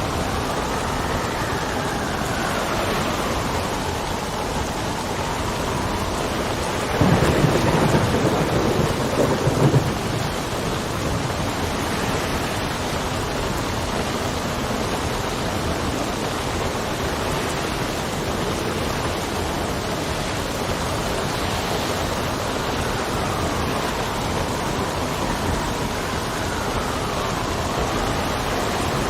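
Steady rain with wind whistling and sliding up and down in pitch near the start and end. About seven seconds in, a burst of thunder lasting some three seconds stands out as the loudest sound.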